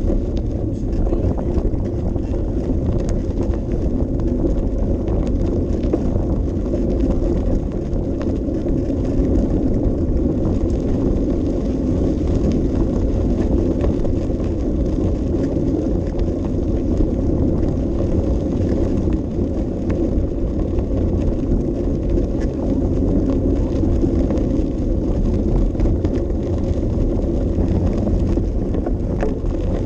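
Steady low rumble of wind buffeting an action camera's microphone, mixed with bicycle tyres rolling along the path while riding.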